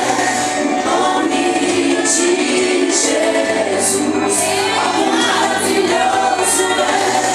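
Christian worship music: a group of voices singing together in Portuguese, holding long notes.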